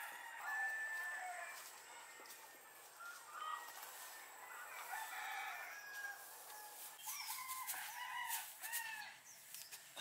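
Birds calling in the background: many short, repeated calls overlapping one another, with a few sharp clicks between about seven and nine seconds in.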